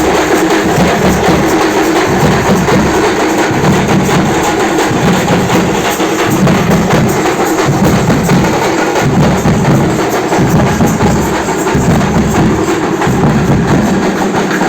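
Dollu drums, Karnataka's large barrel drums, played together in a loud, dense, fast rhythm. The deep strokes swell and drop roughly once a second.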